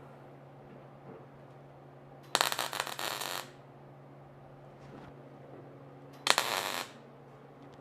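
Two short bursts of welding crackle as tack welds are laid on sheet-metal roof panels: one about two and a half seconds in, lasting about a second, and a shorter one about six seconds in. A steady low hum runs underneath.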